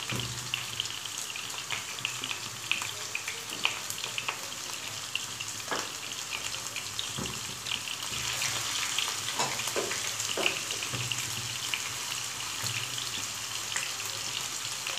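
Chicken seekh kababs sizzling in hot ghee in a non-stick frying pan: a steady frying hiss dotted with small crackles and a few sharper pops. The sizzling gets a little louder about halfway through as another raw kabab goes into the pan.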